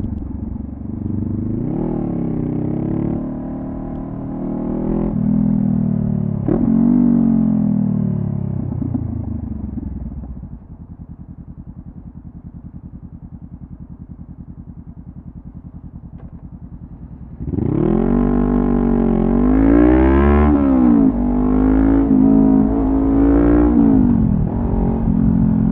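2014 Honda CB500F parallel-twin through a Delkevic carbon slip-on exhaust: it pulls through the gears with the revs rising and dropping at each shift, then rolls off and settles to a quiet steady idle for several seconds. Near the end it pulls away hard, louder, revving up and shifting up several times.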